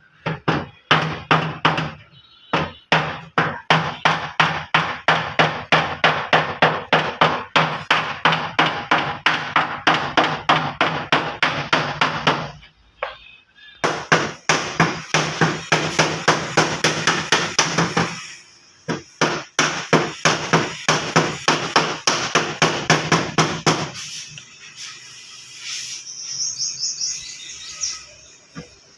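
Hammer blows on car body sheet metal, in rapid, steady runs of about three or four strikes a second: panel beating a dented body panel. There is a short pause near the middle, and the strikes become sparser near the end.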